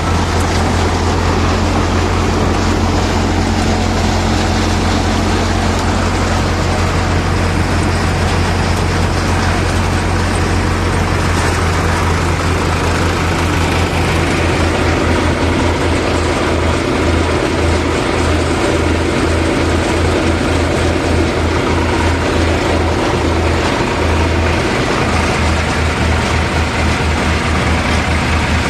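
Tractor engine running steadily while driving a groundnut threshing machine, a loud low hum with a broad mechanical noise over it. About halfway through, the low hum starts to waver and pulse.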